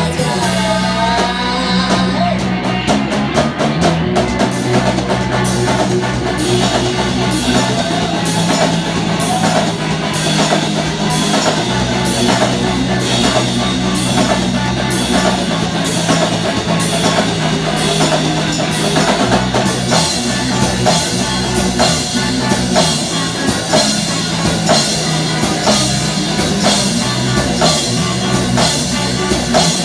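A rock band playing live: drum kit, electric guitars and bass, with a steady beat and crashing cymbals.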